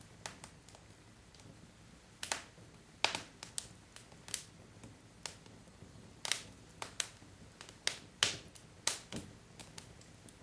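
Wood fire crackling: burning logs giving irregular sharp pops and snaps, a few louder ones clustered in the middle and later part, over a low steady hiss.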